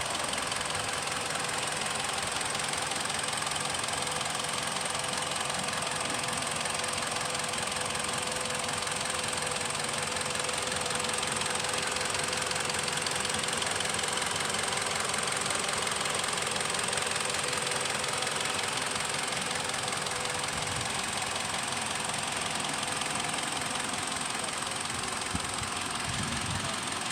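Mitsubishi Lancer engine idling steadily, with an even hum and a high hiss over it.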